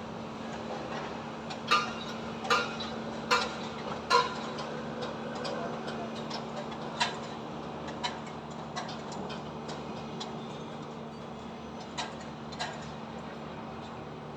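Construction-site metal clanks: four loud ringing strikes about evenly spaced in the first few seconds, then a few fainter ones, over a steady low hum of machinery.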